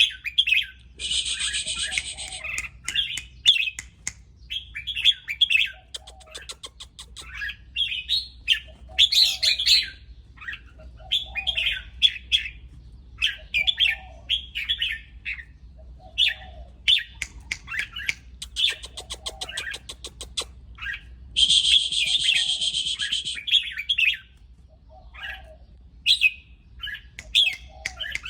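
Red-whiskered bulbul calling in short, repeated phrases every second or two, in a lively, excited bout. Two harsh, rasping calls of about two seconds each, near the start and about three quarters of the way through, are the loudest sounds. Two rapid rattling click trains come between the phrases.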